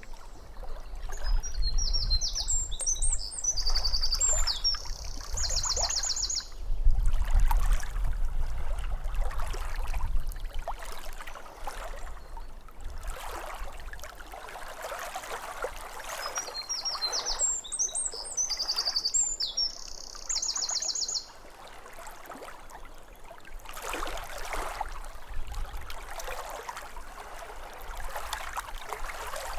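Small waves lapping at a lake shore, with a songbird singing the same short phrase twice: a few chirps followed by a rapid trill. A low rumble runs under the water for the first ten seconds.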